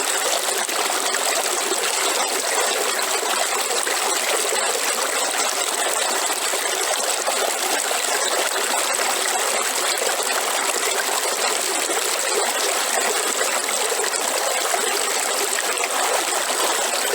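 River water running over rocks in a steady rush and babble, with no change in level.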